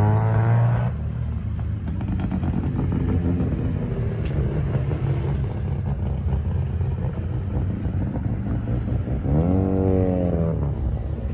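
A vehicle engine being revved. A rising rev cuts off about a second in, the engine then runs with a steady low rumble, and near the end it gets one quick blip that rises and falls back.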